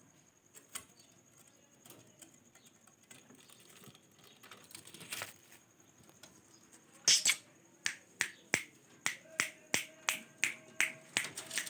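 A quick series of sharp, dry clicks, about three a second and roughly a dozen in all, starting with a louder one about seven seconds in. A faint steady tone sets in partway through.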